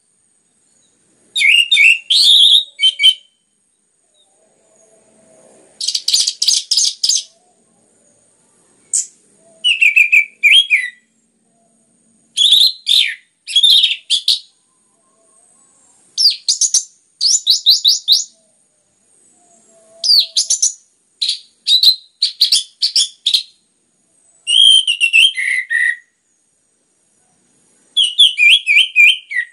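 Orange-headed thrush singing loudly in bursts of a second or two with short pauses: varied whistled phrases that glide up and down, mixed with fast runs of repeated sharp notes, about eight bursts in all.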